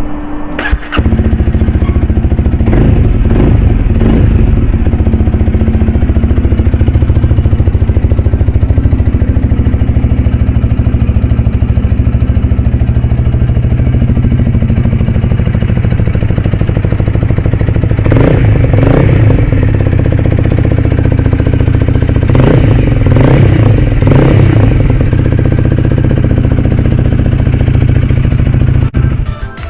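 Honda Rebel 250's single-cylinder engine started up, catching about a second in and idling steadily, then revved briefly a few times past the middle before the sound cuts off near the end.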